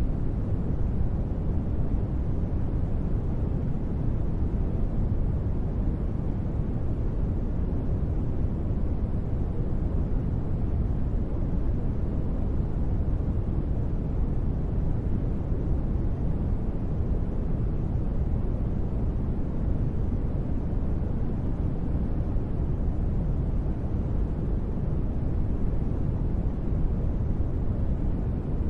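Steady, deep rumbling noise with most of its weight in the low end and little hiss, even and unchanging throughout: a synthetic space-ambience noise bed.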